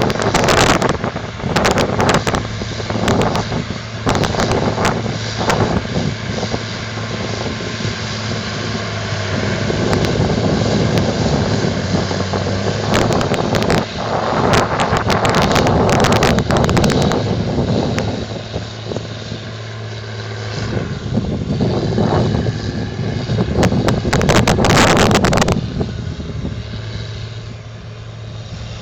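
John Deere 9530 four-wheel-drive tractor's diesel engine running steadily while pulling a dirt scraper, swelling louder twice. Wind buffets the microphone in gusts.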